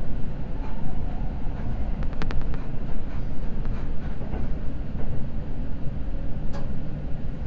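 Running noise inside a Seibu Red Arrow limited express electric train: a steady low rumble of wheels on rails. A few short, sharp clicks come through, a quick cluster about two seconds in and another single one later.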